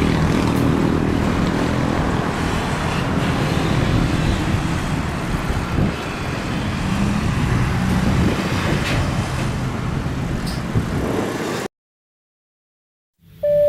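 Steady rushing noise of airliner jet engines, which cuts off abruptly a little before the end. Right at the end a single electronic chime tone starts, the first note of a cabin PA chime.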